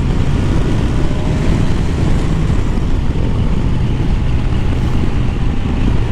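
Kawasaki Ninja 1000SX's inline-four engine running steadily at road speed, with wind rushing over the microphone.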